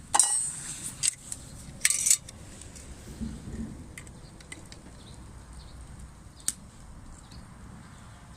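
Cookware and utensils clinking and clattering: two loud clatters, the first about a fifth of a second in and the second about two seconds in, then a few light taps and clicks.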